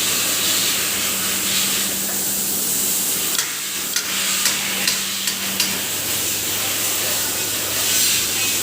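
Steady hissing noise over a low mechanical hum. The hum drops lower about six seconds in, and a few light clicks come near the middle.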